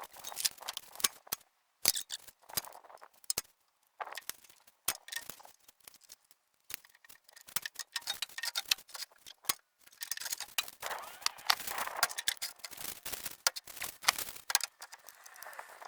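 Irregular metallic clicks, clinks and knocks of hand tools and battery hardware as new truck batteries are fitted.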